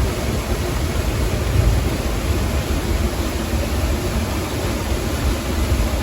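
Waterfall rushing steadily close by, a dense even noise with a heavy low rumble.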